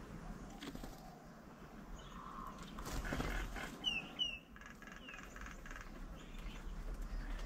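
Birds calling: two short, sharp falling chirps close together about four seconds in, with fainter chirps around them.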